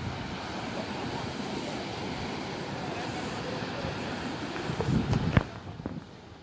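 Wind buffeting the microphone over a steady rush of water, with a few louder knocks about five seconds in before the sound drops sharply quieter near the end.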